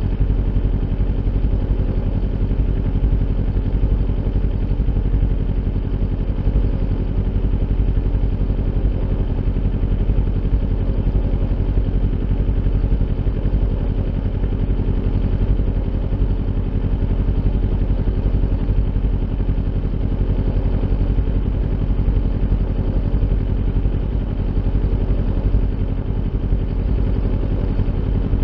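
Kawasaki Ninja 400's parallel-twin engine running through an Akrapovic aftermarket exhaust at steady, unchanging revs.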